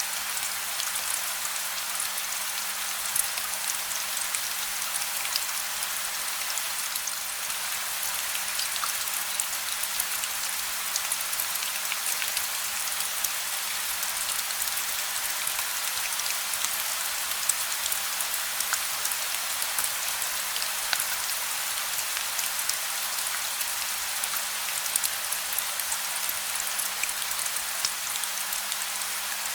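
Steady gentle rain without thunder: an even hiss of rainfall dotted with many small, sharp drop ticks, with a faint steady low hum underneath.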